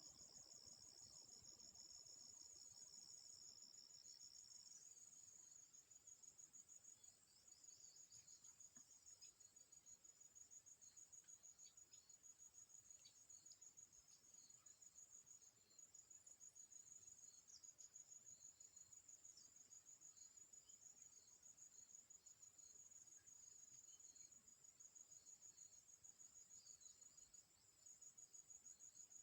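Crickets chirping in a continuous high, fast-pulsing trill, with a second, lower trill alongside for the first five seconds or so. Faint.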